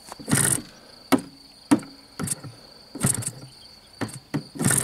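A steady high-pitched insect trill, typical of a cricket, runs throughout. Over it come short, irregular noisy bursts and a couple of sharp clicks, each lasting a fraction of a second.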